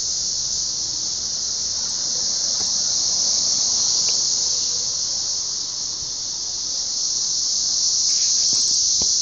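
Massed chorus of Brood XIX 13-year periodical cicadas: a loud, unbroken high-pitched drone that swells and eases slightly.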